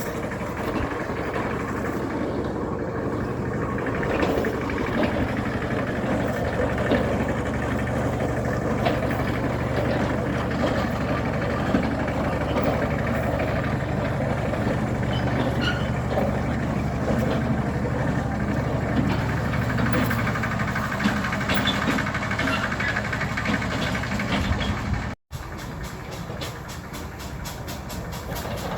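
An engine running steadily at an even speed with a low hum. After a cut about 25 seconds in, a train rolls along the rails with a regular clicking from the wheels.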